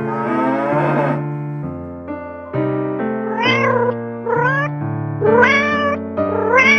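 Piano background music, with an animal giving four short calls, each rising and then falling in pitch, about a second apart from roughly three seconds in.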